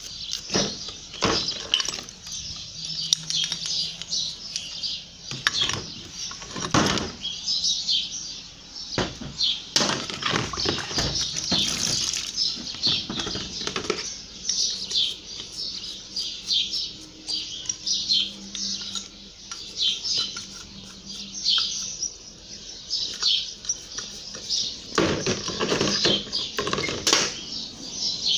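Small birds chirping over and over, with a few louder knocks and scrapes from the carburetor being handled and scrubbed.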